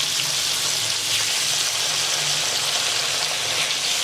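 Boneless chicken strips frying in oil and melted butter with chopped garlic, a steady sizzle.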